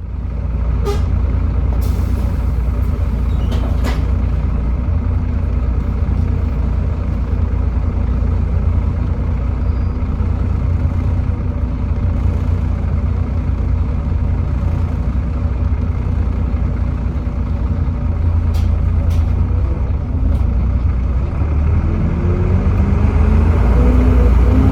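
Volvo D7C 7.3-litre diesel engine of a Volvo B7TL double-decker bus running with a steady low rumble, with a few sharp clicks in the first seconds. Near the end the engine note rises and then drops as the revs climb.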